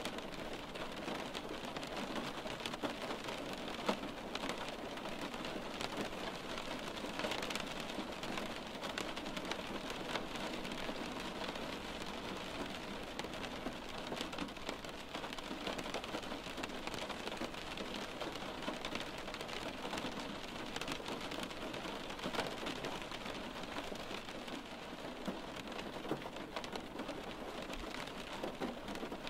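Steady rain on window glass: a continuous hiss of rainfall with many small raindrops tapping against the pane.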